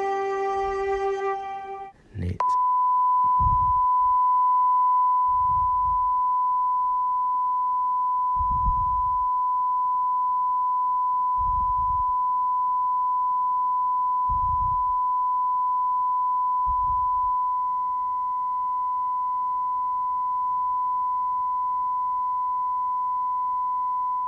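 A single steady electronic beep tone, pure and unchanging, starts with a click about two seconds in, after a short stretch of music, and holds for over twenty seconds. Faint low thuds sound underneath every two to three seconds.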